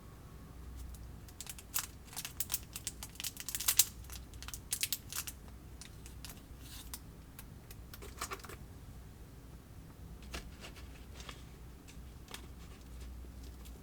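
Plastic of a DIY candy kit being handled: a quick run of light clicks and crinkles in the first few seconds, then scattered single clicks.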